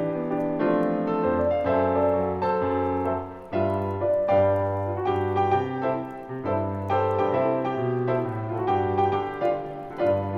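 Solo piano playing a gentle Christmas-song arrangement, a melody over steady chords in the bass.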